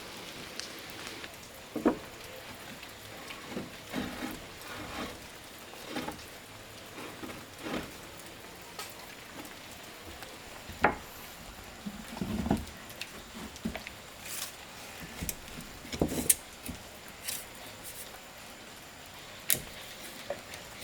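Irregular light knocks and taps, a dozen or more at uneven intervals, over a faint steady hiss.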